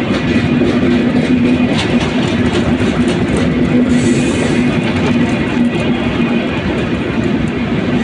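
Express passenger train coaches running through close by at speed: a loud, steady rush of wheels on rail with a steady low droning tone.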